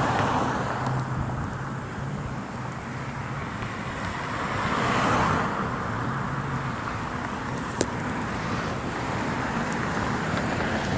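Road traffic: cars passing on a nearby street, with a swell of tyre and engine noise about five seconds in.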